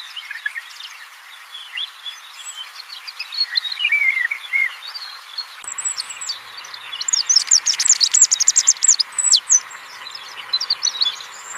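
Small birds calling: a run of short sliding chirps, then about halfway through a fast series of very high, thin notes. A steady hiss sits underneath.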